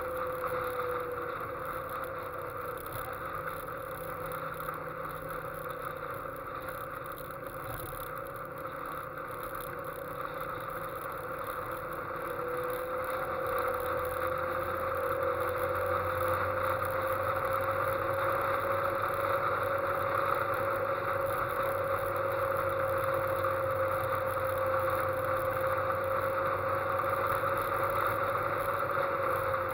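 Westfield sports car engine running at road speed, heard from on board over a steady rush of wind and tyre noise. The engine note drops about a second in, then rises again after about twelve seconds and holds there, louder.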